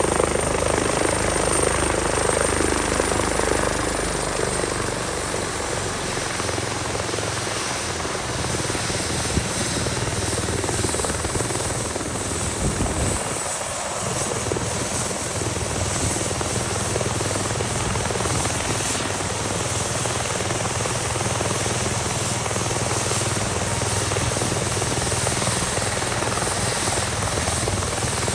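Airbus EC145T2 helicopter running steadily, with turbine and rotor noise; it eases slightly about four seconds in.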